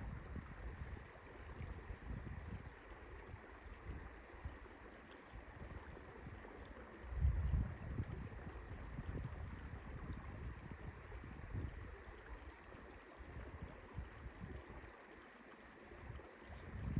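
Wind buffeting the microphone: a low, gusting rumble over a faint even hiss, with its strongest gust about seven seconds in.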